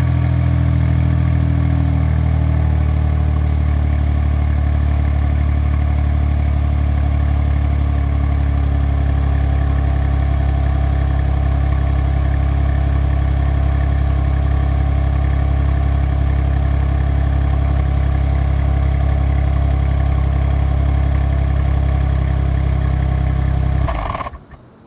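Suzuki Wagon R engine idling steadily through its muffler, the idle settling slightly lower about two seconds in. The engine is switched off near the end and the sound stops abruptly.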